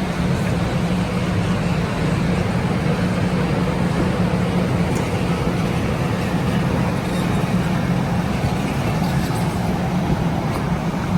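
Steady running noise of a vehicle in motion: an even rumble with a constant low hum underneath.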